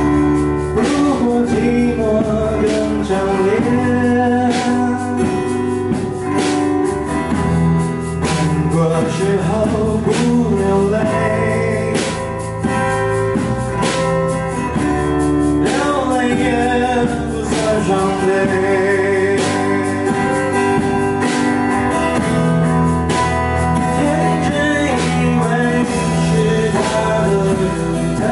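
Mandopop song with a male voice singing over guitar accompaniment and a steady beat.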